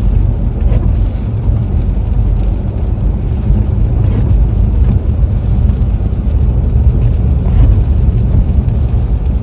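Steady low rumble of a car driving on an icy, slushy road, heard from inside the cabin: tyre and engine noise.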